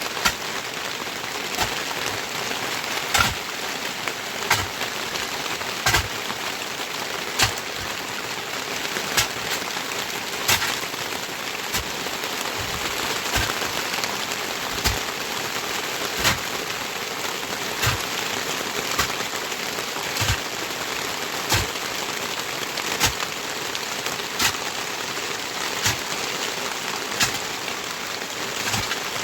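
Heavy rain falling steadily on surfaces, with a sharp drip-like tap about every second and a half.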